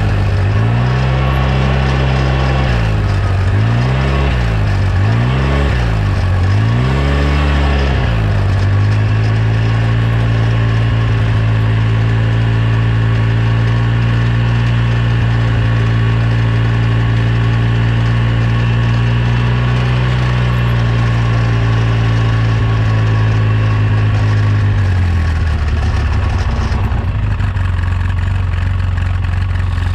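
2009 Polaris RZR 800 S engine running, blipped up and down four times, then held at a steady raised speed before dropping back to idle near the end. The rear end is being run up to find a rattle that the owner suspects is in the differential, the pinion nut or a CV joint.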